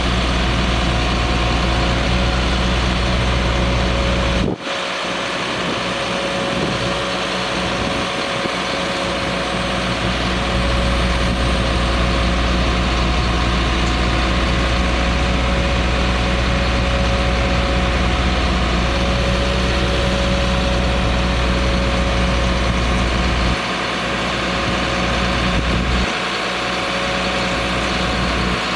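Truck engine idling steadily, with a constant higher-pitched hum over the low rumble. The sound breaks off abruptly about four and a half seconds in and carries on straight after.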